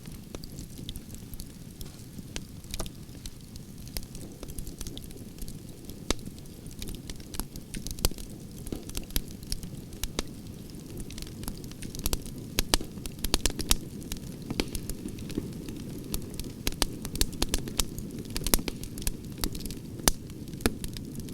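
Wood fire burning: a low steady rush of flame with frequent sharp, irregular crackles and pops from the burning logs, coming thicker in the second half.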